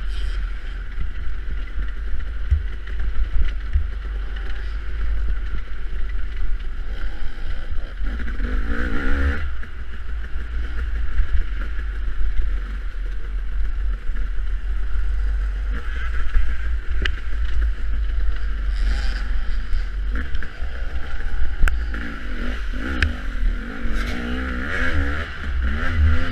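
Dirt bike engine running and revving during an off-road harescramble ride, with rumbling wind on the microphone and scattered sharp knocks.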